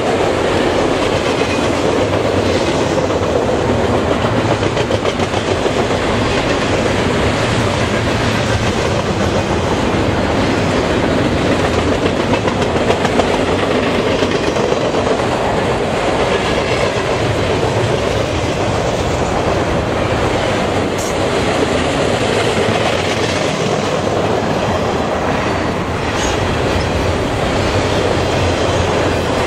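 Double-stack intermodal container well cars rolling past at speed: a steady, loud noise of steel wheels running on the rails.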